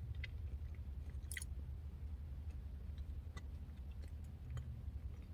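Soft chewing with faint, scattered mouth clicks from eating a spoonful of blueberry yogurt parfait.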